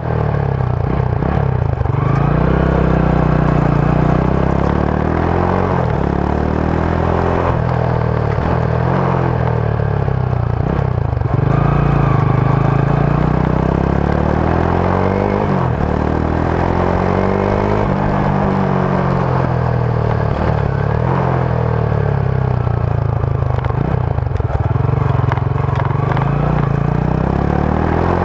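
Rusi Sigma 250 motorcycle's stock exhaust on the move, its engine note repeatedly rising and falling every few seconds as the revs climb and drop.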